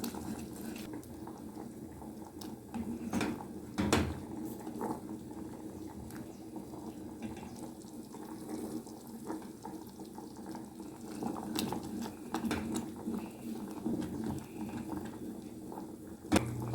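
Creamy milk-and-cream sauce simmering and bubbling as it thickens in a pan, with a few clicks and knocks of a utensil.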